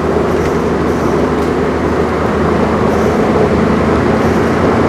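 Cadillac Escalade driving on the road with its freshly swapped-in engine, heard from inside the cabin: a steady engine hum under even road and tyre noise.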